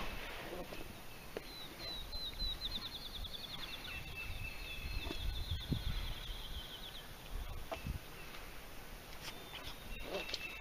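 A songbird singing one long, fast trill of high notes lasting about five seconds and falling slightly in pitch, over a low outdoor rumble; a thin high note sounds briefly near the end.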